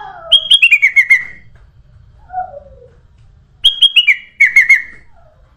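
Kutilang emas bulbul singing: two quick phrases of clear, bright notes, each stepping down in pitch over about a second, with a softer low downward whistle between them.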